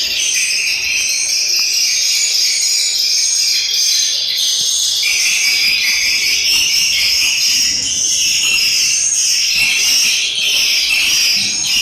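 Dense, continuous high-pitched twittering of swiftlets, a steady chirring wall of calls.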